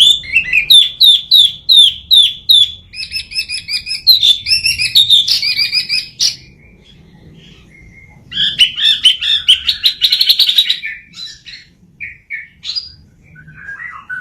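A Chinese hwamei (wambi) singing loudly. It gives a run of repeated down-slurred whistled notes, then fast varied trilled phrases, pauses for about two seconds, bursts into rapid phrases again and trails off into scattered short notes.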